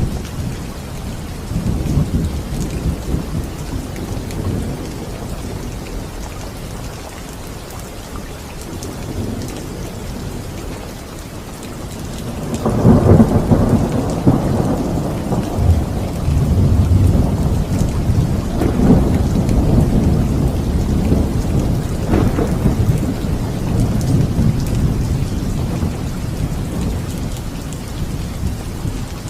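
Steady rain with thunder. Low thunder rumbles in the first few seconds, then a loud peal breaks in suddenly about halfway through and keeps rolling, rising and falling, for over ten seconds.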